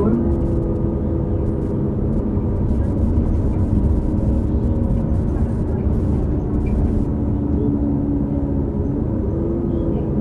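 New Flyer XD40 transit bus running on the road: Cummins L9 diesel engine and Allison B3400xFE transmission giving a steady drone with a whining tone on top, which dips slightly and rises again near the end. The whine is the odd transmission-bearing noise that the uploader notes on several buses of this series.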